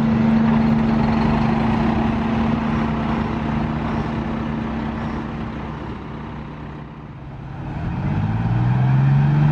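Detroit Diesel bus engine running at a steady speed, its sound fading over several seconds, then an engine note rising in pitch near the end as an engine revs up.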